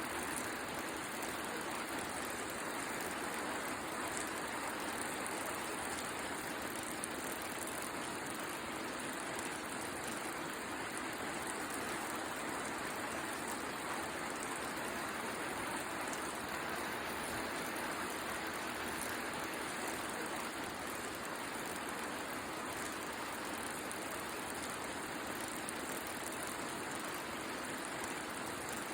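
Steady rain with a wood fire crackling: a continuous even hiss with scattered faint pops.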